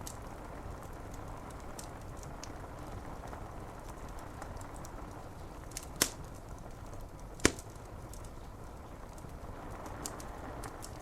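Steady rain on window glass with a fire crackling: small snaps throughout and two louder pops, about six and seven and a half seconds in.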